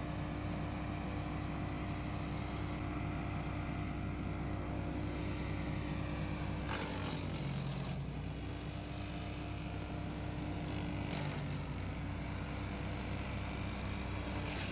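Wallenstein BXMT 4238 chipper shredder running steadily. About seven seconds in, a burst of noise comes as the engine note briefly drops, the sign of the rotor taking a load of wood, with a smaller change near eleven seconds.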